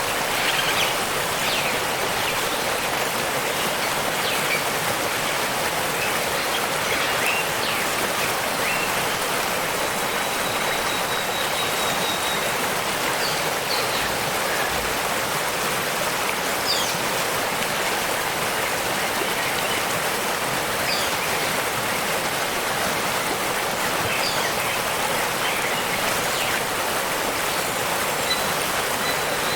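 Waterfall rushing steadily, with faint, brief high bird chirps and whistles scattered through it.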